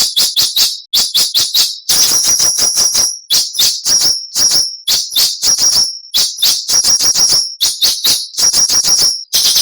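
Songbird giving rapid clusters of harsh, rasping notes, several notes per cluster, about one cluster a second, repeated over and over: the coarse 'besetan' type of call used as training song for caged birds.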